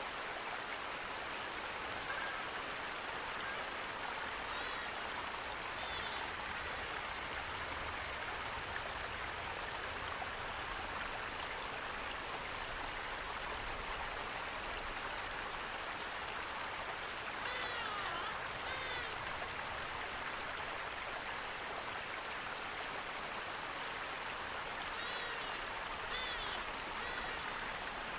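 Steady rushing of flowing water from a stream or small waterfall. Over it come short bird chirps now and then, with a cluster about two-thirds of the way in and another near the end.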